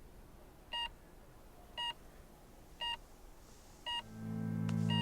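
Patient monitor beeping, short electronic beeps about once a second, the steady pulse of a bedside heart monitor. Soft background music fades in about four seconds in.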